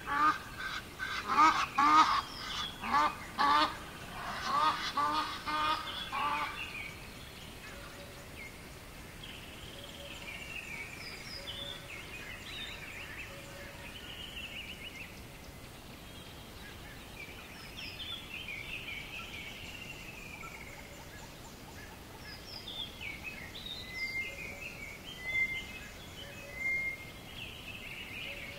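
A rapid series of loud, harsh calls from a large bird, several a second, lasting about six seconds. After them come quieter chirps and short falling whistles of small songbirds.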